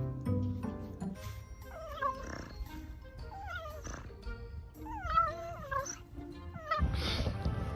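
Cat meowing several times, each call sliding down in pitch, over background music.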